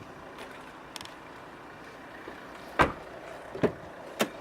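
Three short, sharp knocks in the second half, each less than a second apart, over a faint steady background hiss.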